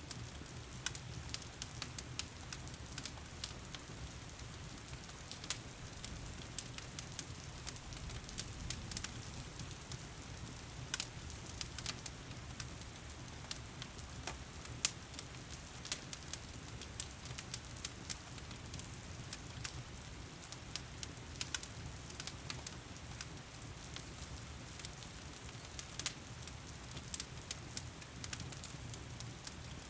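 Wood fire crackling in a fireplace, with frequent sharp irregular pops, over a steady hiss of heavy rain.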